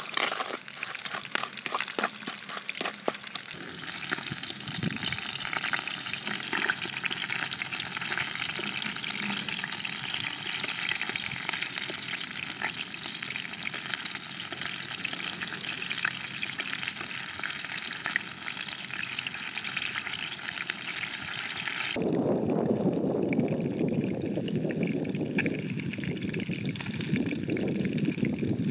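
A stone pestle knocks several times against chilies in a coconut-shell mortar. Then food sizzles steadily in hot oil in a pan. About three-quarters of the way through this gives way suddenly to a low rush of wind and sea.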